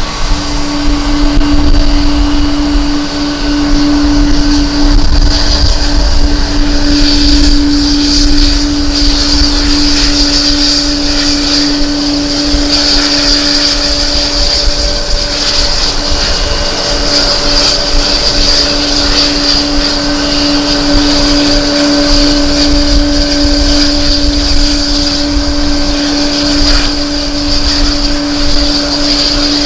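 Airliner engines running steadily with a constant tone and a high whine that grows stronger after a few seconds, over an uneven low rumble of strong wind on the microphone.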